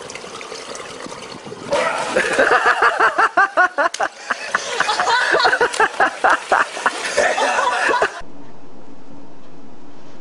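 Pool water splashing, then from about two seconds in, loud people laughing in rapid bursts. The laughter cuts off suddenly near eight seconds, leaving a steady low hum.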